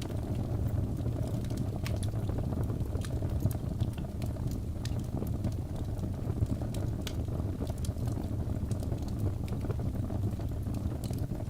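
Log fire burning in a fireplace: a steady low rush of flame with frequent sharp, irregular crackles and pops from the burning wood.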